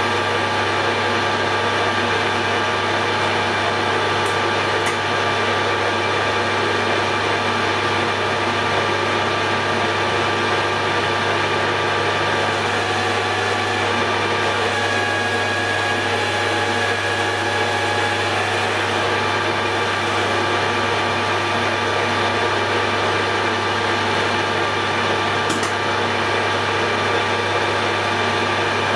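Hare and Forbes AL335 metal lathe running steadily with a constant motor and gear hum while a radius-tipped tool takes a light finishing cut, radiusing the edge of the workpiece. A thin high whine comes in briefly about halfway through.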